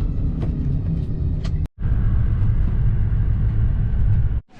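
Steady low rumble of a moving road vehicle, cut off briefly by an edit about one and a half seconds in.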